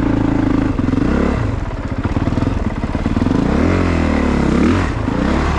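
2022 Honda CRF450RX's single-cylinder four-stroke engine running under way, the revs climbing and dropping back about four seconds in.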